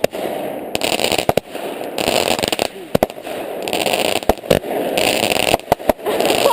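Fireworks going off: about ten sharp bangs and pops at irregular intervals over a continuous crackling hiss that swells and fades in waves.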